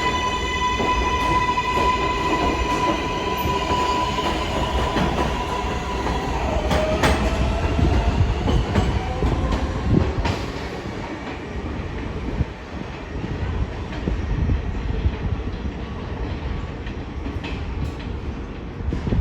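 R188 subway train's electric traction motors whining at a steady high pitch with several overtones. About six and a half seconds in the whine shifts to a lower tone and fades into the rumble and clatter of wheels on rail, which eases a little near the end.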